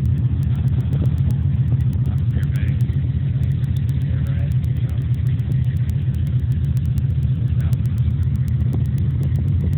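A car engine idling close by, a steady low exhaust rumble.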